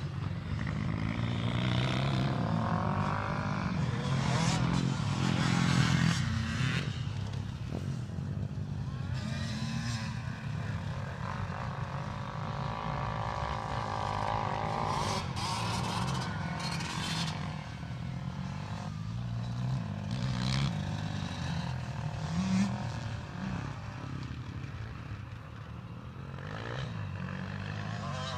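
Motocross dirt bike engines revving and passing on the track, their pitch rising and falling as they accelerate and back off.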